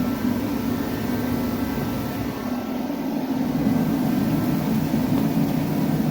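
A steady, low machine drone with a faint whine above it, unchanging throughout.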